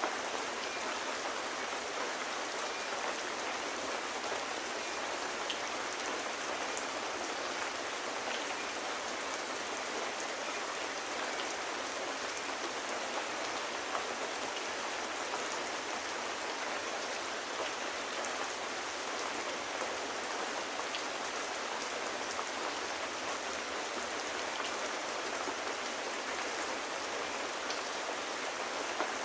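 Steady rain falling, an even hiss with scattered small drop ticks, unchanging throughout.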